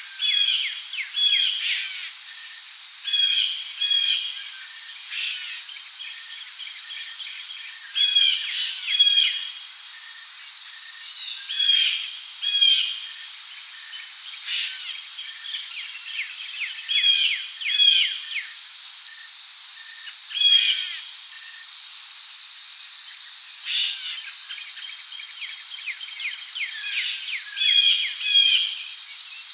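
Rainforest ambience: a steady high-pitched insect drone of crickets, with birds calling in short chirps, often paired, every second or two, and a few sharp clicks.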